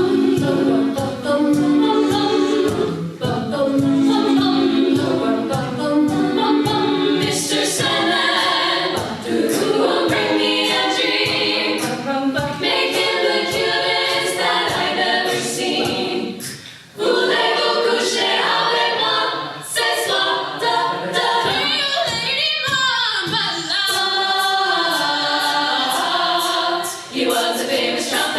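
Women's a cappella ensemble singing in close harmony, with vocal percussion keeping a steady beat underneath.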